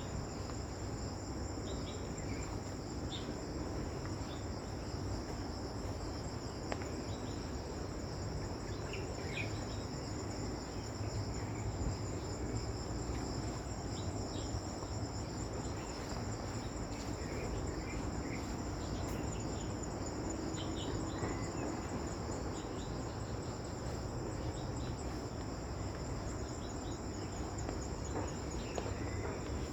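Chorus of insects, crickets by their sound, trilling steadily at a high pitch. Scattered short, lower chirps are heard now and then.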